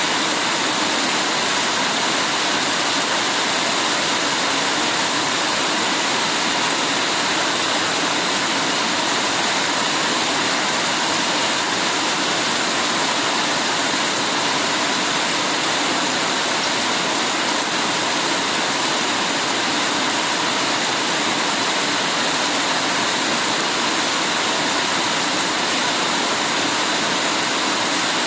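Heavy rain falling steadily, a dense even hiss of water with no breaks.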